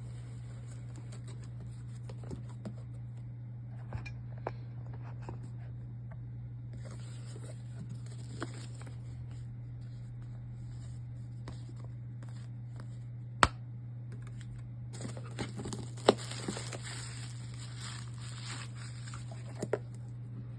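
Packaging being handled and opened: rustling, crinkling and tearing of wrapping, with scattered sharp clicks and taps, over a steady low hum. The rustling comes in two spells, one about a third of the way in and a longer one in the last third, and two sharp clicks stand out past the middle.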